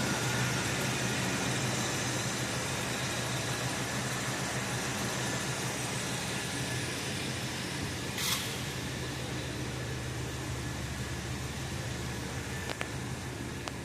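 1983 Buick Park Avenue's engine idling steadily after a cold start, slowly getting quieter. A brief hiss comes about eight seconds in, and two light clicks near the end.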